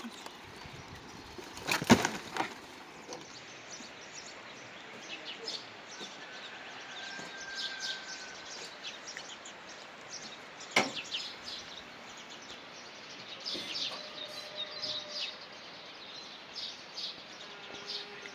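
Birds chirping over a steady outdoor background, with a few loud sharp knocks about two seconds in and a single one near eleven seconds.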